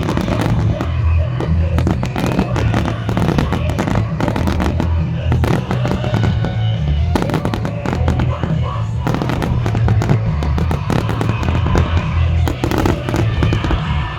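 A dense, rapid volley of aerial firework bursts and crackles, many bangs a second without a break, over a loud music soundtrack.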